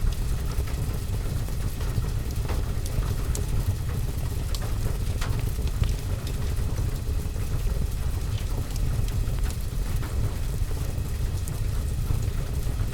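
Steady rain on a window and roof, a dense low hiss and rumble, mixed with the scattered sharp pops and crackles of a wood fire burning in a fireplace.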